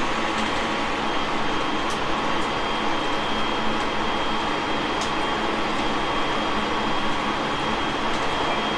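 Steady interior noise of a Tobu 30000 series electric train, heard from inside the car, with a faint steady high whine and a couple of light clicks.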